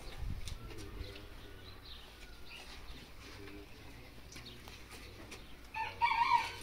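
Quiet outdoor ambience with faint bird calls, like a dove cooing. A louder, brief sound comes near the end.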